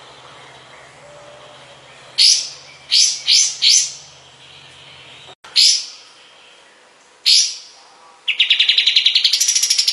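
Kapas tembak (olive-winged bulbul) singing: a series of short, sharp, high notes, some in quick groups of two or three, then a fast rattling trill of about a dozen notes a second near the end.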